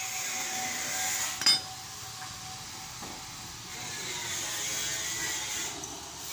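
A single sharp metallic clink about a second and a half in, with a short ring, over a steady high hiss; metal tools or parts knocking together while the differential is being worked on.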